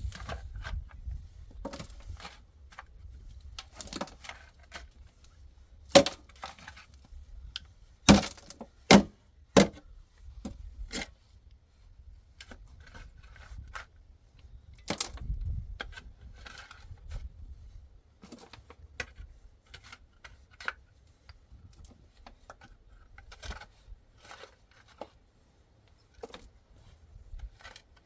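Irregular sharp knocks and clatters over a faint low rumble, the loudest a few hard knocks around the middle.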